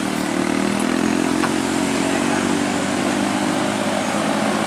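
Truck engine running steadily at an even pitch, a loud continuous drone.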